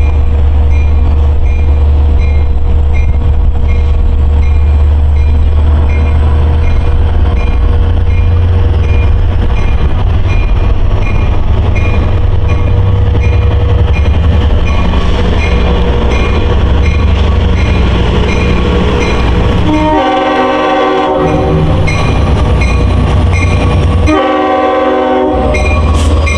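LIRR DM30AC diesel-electric locomotive train passing close by with a heavy steady engine rumble, while a grade-crossing bell dings about twice a second. Near the end the locomotive horn sounds two blasts, each about a second long.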